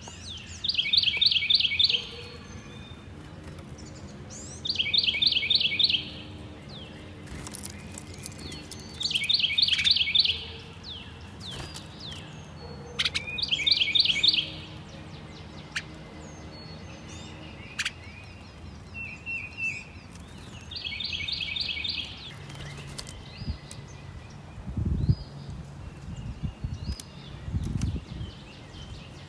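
A songbird repeats a rapid, high trill about a second long every few seconds, with fainter chips and calls of other birds in between. A few low thumps come near the end.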